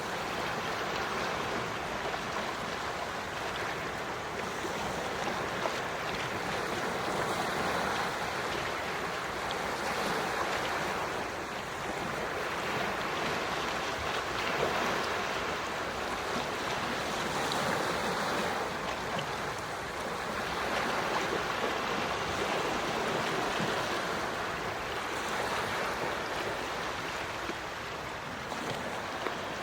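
Gentle sea waves washing onto the shore, a steady hiss of surf that swells and eases every few seconds.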